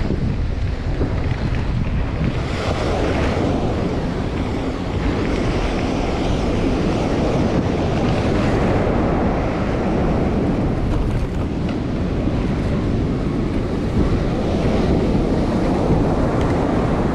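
Strong wind buffeting the microphone: a dense, steady rush of noise, heaviest in the low end, with no break.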